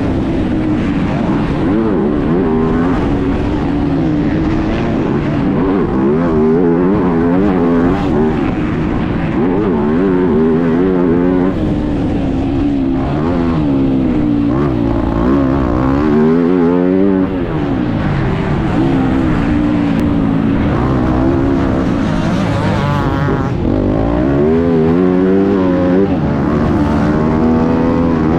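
Motocross bike engine revving hard and continuously, its pitch repeatedly rising and falling with the throttle as the bike accelerates and backs off around the track.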